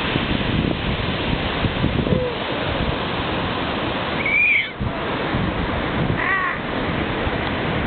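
Heavy ocean surf breaking in a steady rush of white noise, with two short high calls, one about four seconds in and another about two seconds later.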